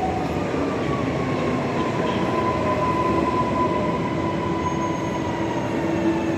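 Passenger train moving along the platform, a steady rumble of running gear with a high whine that slowly falls in pitch.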